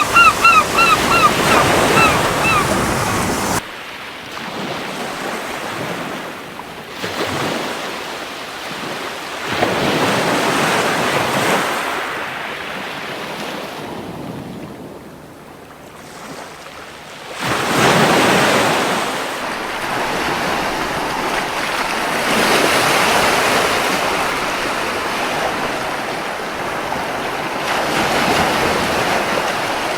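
Ocean surf washing onto a beach in slow swells and ebbs every several seconds. A gull calls a quick run of seven or eight short, falling notes in the first couple of seconds. The sound drops abruptly about three and a half seconds in.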